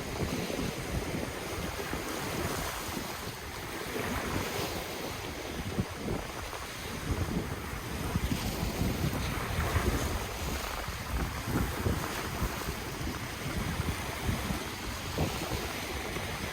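Ocean waves washing in steadily, with wind rumbling on the microphone.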